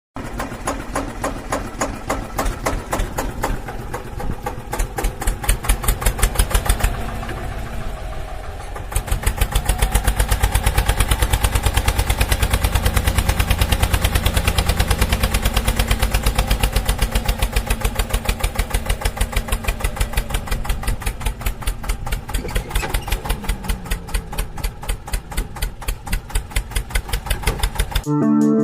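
Eicher 242 tractor's single-cylinder diesel engine running with a steady, even beat of firing strokes, growing louder about nine seconds in.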